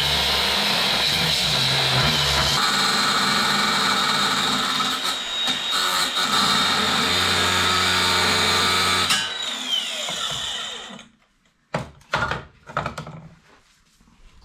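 Angle grinder with a cutting disc cutting off an old exhaust hanger: a loud, steady whine for about nine seconds, then the pitch falls as it spins down. A few sharp knocks and clatter follow near the end.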